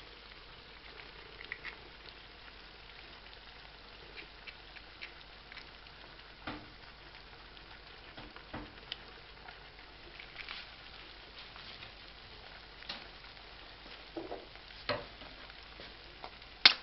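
Diced potatoes, ham and onion frying gently in fat in a pan: a faint steady sizzle with scattered small pops and crackles. Near the end, a single sharp tap as an egg is cracked against the pan.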